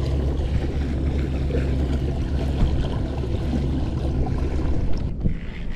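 A boat motor running at a steady pitch over a wash of water noise. The hum drops away about five seconds in.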